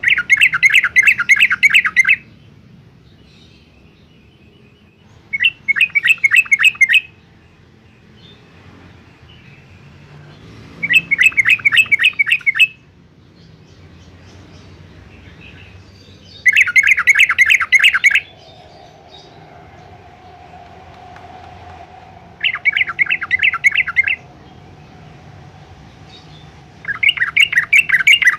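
Yellow-vented bulbul singing in short bursts of rapid, bubbling notes, each phrase about a second and a half to two seconds long and repeated about every five to six seconds, six times.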